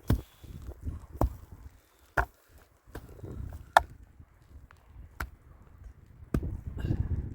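Chopping: about six sharp blows, spaced unevenly about a second apart.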